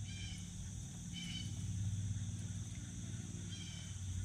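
Steady insect drone with a bird's short high call repeated three times, over a low steady hum.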